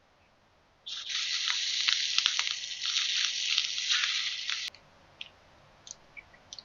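Food sizzling in a hot pan over a campfire: a steady hiss with crackling pops that starts abruptly about a second in and cuts off suddenly after about four seconds, followed by a few faint clicks.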